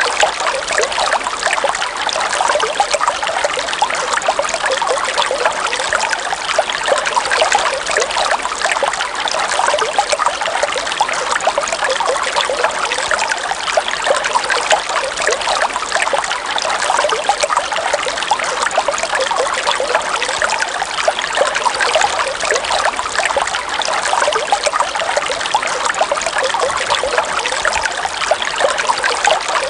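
Shallow river water trickling and babbling steadily over stones and ice, a dense patter of small bubbling splashes with no let-up.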